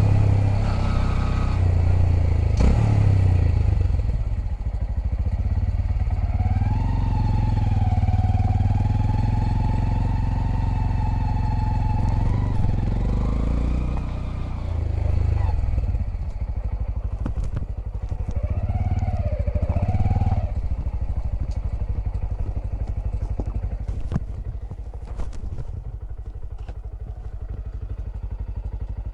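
Honda Grom's 125 cc single-cylinder four-stroke engine running on the move, its pitch rising and falling as the rider opens and eases the throttle, over a steady low rumble. Scattered light clicks are heard in the second half.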